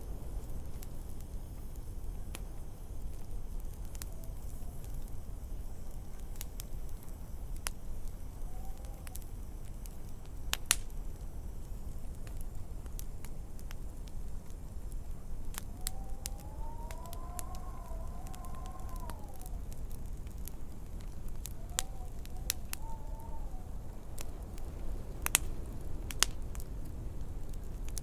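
Wood fire crackling with scattered sharp pops over a steady low rumble. Wind howls in soft rising-and-falling whistles several times, the longest about midway.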